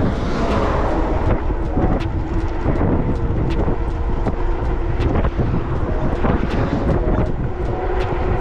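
Wind rushing over the microphone and fat tyres rumbling on the road as the 750 W electric bike runs at full throttle, with a faint steady motor whine under the noise and scattered sharp ticks.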